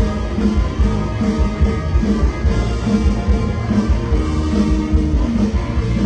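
Band music without singing, with drums, bass and a steady beat.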